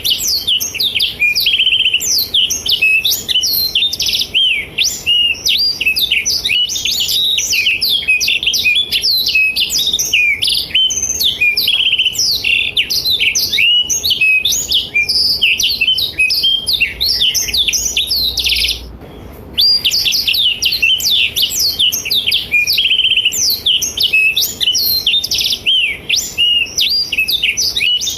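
Blackthroat (black-throated canary) singing a long, fast, unbroken run of high chirps and trills, with one short pause about nineteen seconds in.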